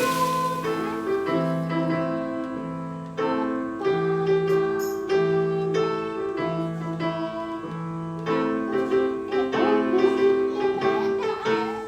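Piano playing music, steady chords over a low note repeated at an even pace.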